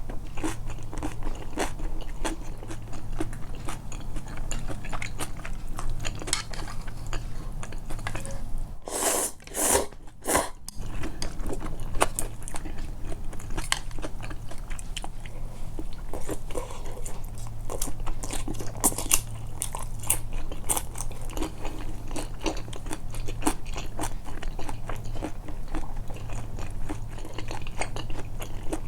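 Close-miked, amplified chewing and biting of tempura and soba, many small wet mouth clicks and soft crunches; the batter has gone soft rather than crisp. A low steady hum lies underneath, and the chewing breaks off briefly about nine seconds in.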